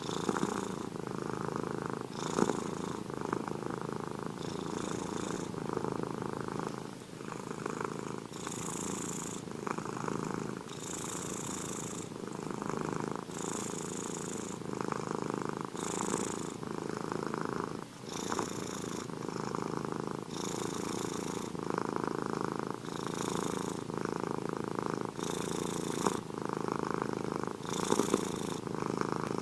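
Domestic cat purring steadily and close up. The purr swells and eases in a regular cycle of about two seconds as the cat breathes in and out.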